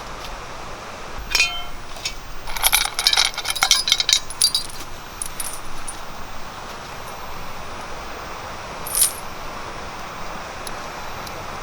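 Hard objects clinking and rattling, with a burst of clinks from about a second in lasting around four seconds, then a single clink near the end, over a steady hiss.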